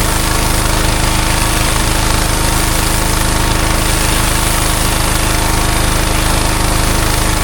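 Pressure washer's engine running steadily, with the hiss of a high-pressure water jet cleaning block paving.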